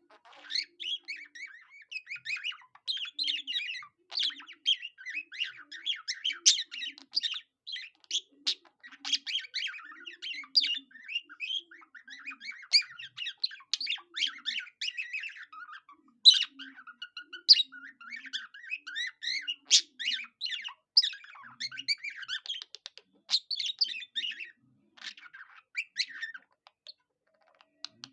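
Budgerigar singing a long, continuous warbling chatter of fast chirps, squeaks and whistled notes, with a few sharper squawks, in a song the owner likens to a cockatiel's.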